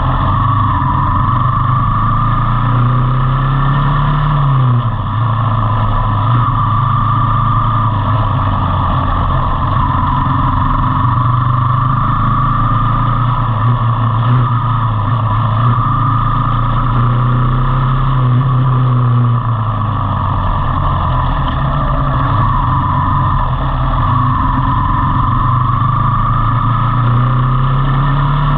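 Motorcycle engine running under way. Its pitch climbs as it accelerates and drops suddenly at gear changes, about 5 seconds in, again near 19 seconds, and at the end.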